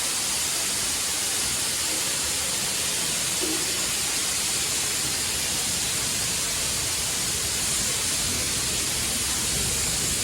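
Steam locomotive letting off steam, a steady unbroken hiss.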